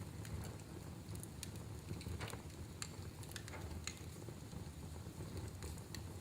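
Wood fire crackling in a fireplace: a steady low rumble of the flames with scattered sharp pops and snaps, a few louder ones near the middle.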